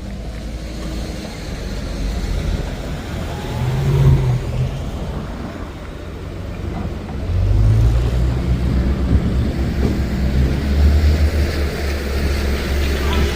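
Pulling truck engine, revving briefly about four seconds in, then running loud and steady from about seven seconds in.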